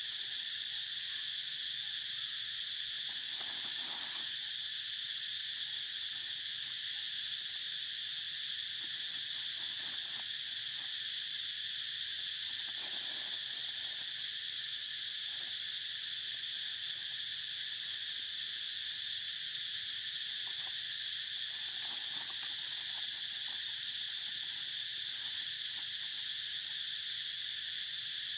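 Insects chorusing in a steady, unbroken high-pitched drone, with a few faint soft rustles underneath.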